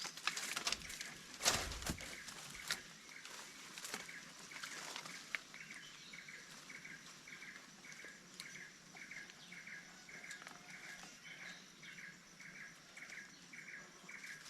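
A bird repeating a short call about twice a second, starting about six seconds in. Before it come scattered rustles and knocks, with one louder knock early on.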